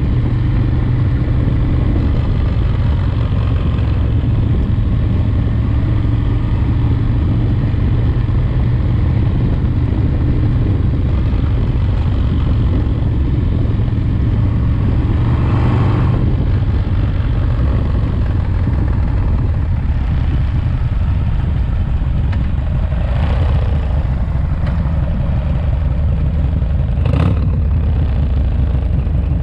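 Rebuilt S&S 107ci V-twin in a Harley-Davidson FXRT running at a steady, even speed while being broken in, with a few short louder rushes of noise about halfway through and near the end.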